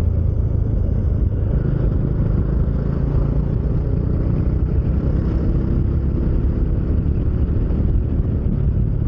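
Bajaj Dominar motorcycle engine running steadily at riding speed, heard through a helmet-mounted mic with wind and road noise.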